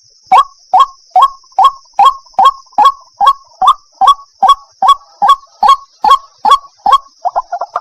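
White-breasted waterhen (ruak-ruak) calling: a steady series of short, harsh notes, two to three a second, breaking into quicker, shorter notes near the end. A steady high-pitched hiss runs underneath.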